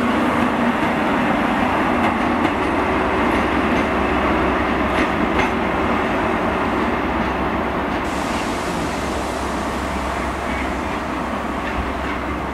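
Class 43 HST diesel power car and its coaches passing and running on away: a steady rail rumble with the diesel engine under it and a few wheel clicks over the rail joints, slowly getting quieter.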